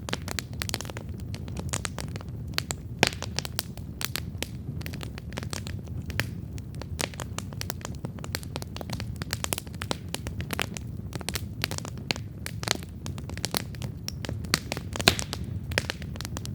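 Wood campfire crackling, with a dense run of sharp pops and snaps over a steady low rumble; two louder pops stand out, about three seconds in and near the end.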